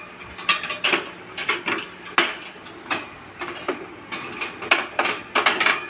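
A pet parrot's claws and beak clicking and rattling on hard surfaces as it climbs, in about eighteen sharp, irregular clicks, roughly three a second.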